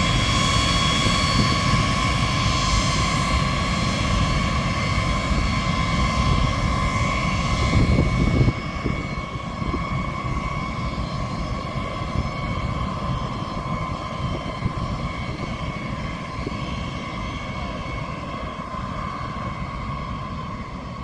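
Engines of a large military aircraft running: a steady high whine over a heavy rumble. The rumble drops away suddenly about eight seconds in, and the whine carries on more quietly.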